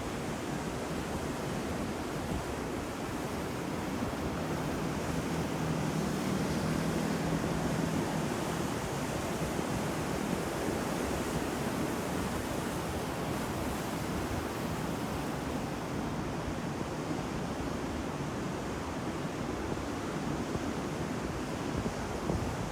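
Ocean waves breaking on the shore in a continuous rush of surf, swelling a little and easing off again.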